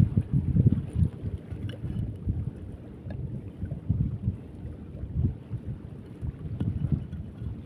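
Wind buffeting the microphone in uneven gusts, a low rumble.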